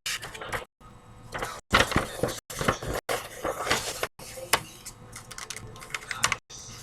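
A sheet of paper being handled, folded and creased by hand, with irregular rustling and sharp crackles, cut off abruptly several times.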